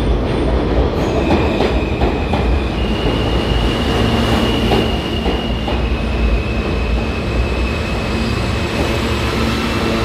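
New York City subway train running through an underground station, a steady loud rumble of wheels on rails. There are a few sharp clicks over rail joints near the start, and a steady high-pitched squeal runs through most of it.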